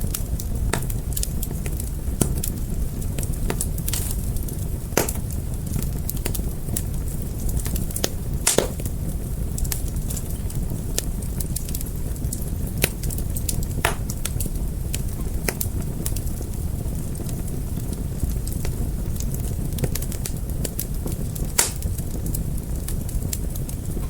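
Wood fire burning with a steady low rumble and irregular sharp crackles and pops, a few louder pops standing out.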